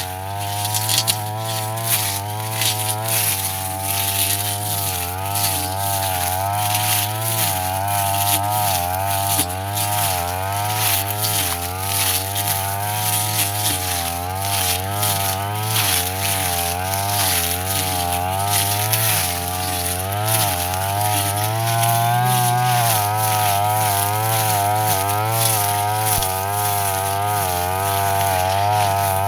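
Brush cutter engine running at high speed, its pitch wavering up and down about once a second as the blade works into tough grass, with a constant crackle of clicks from the cutting.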